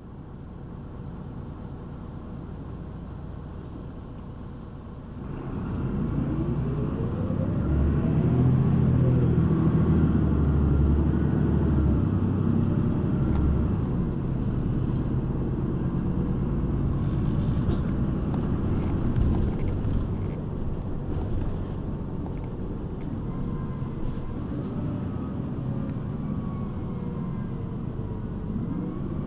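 City bus engine heard from inside the passenger cabin, rumbling quietly for about five seconds. It then picks up loudly as the bus pulls away, its pitch rising and falling through the acceleration, and settles into a steady running drone.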